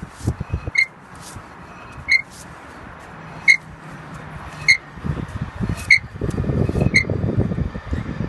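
Car wheel and brake turning with a short, high chirp repeating about once every 1.2 seconds over a low rumble: the wheel/brake noise the car is being diagnosed for.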